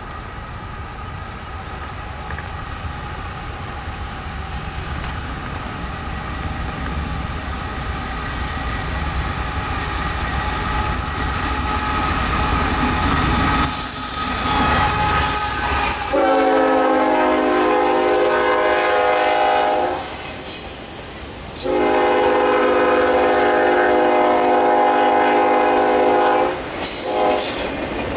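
An eastbound Norfolk Southern freight train approaching and passing, its rumble growing steadily louder as the lead GE ES44AC diesel locomotive draws near. About two-thirds of the way through, the locomotive horn sounds two long blasts and then a short one, with another long blast starting at the very end: the long-long-short-long grade-crossing signal. The autorack cars roll past underneath it.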